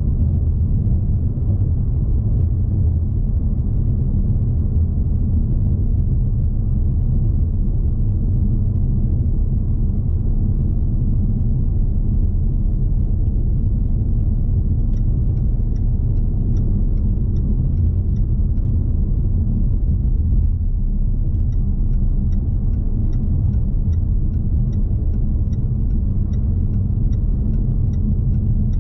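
The 2020 Jaguar XE P300's 2.0-litre turbocharged four-cylinder and road noise as the car drives, heard as a steady low rumble. About halfway through a light, regular ticking starts, about two ticks a second; it stops briefly, then comes back near the end.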